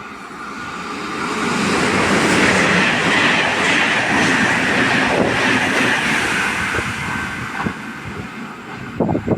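A train passing through a station at speed without stopping, with steel wheels clattering over the rail joints. The sound builds to its loudest about two seconds in, holds, and fades after about seven seconds, with a few sharp loud knocks near the end.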